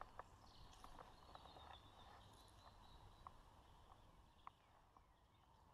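Near silence: faint outdoor ambience with a few soft clicks and ticks scattered through it.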